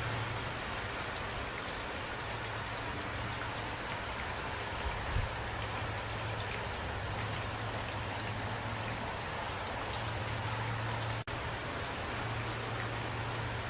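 Steady rain with scattered individual drop ticks over a constant low hum. The sound drops out for an instant about eleven seconds in.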